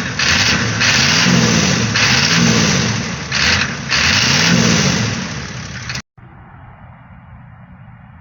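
A 6.9-litre IDI V8 diesel engine revving up and down several times. It cuts off abruptly about six seconds in, leaving a much quieter steady background.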